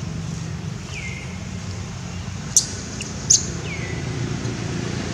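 Birds chirping: two short, sharp high chirps in the middle, and two falling whistled notes, one about a second in and one near the end, over a steady low rumble.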